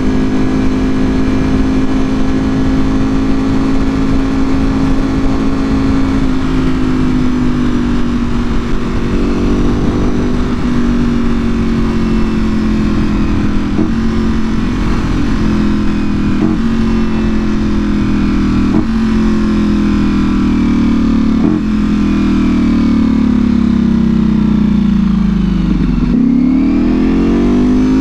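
Ducati Panigale V4R's V4 engine through an Akrapovic full exhaust, heard on the move: the engine note holds steady, then slowly falls as the bike slows, with a few short breaks along the way. Near the end the note drops low and then climbs again as the throttle opens.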